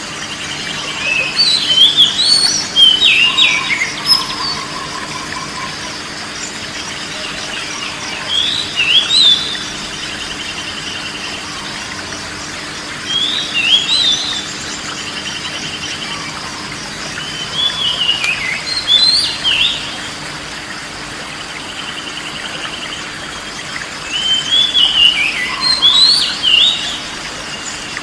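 A songbird sings five short whistled phrases, each a quick run of rising and falling notes about two seconds long, spaced a few seconds apart. A steady hiss of running water lies beneath them.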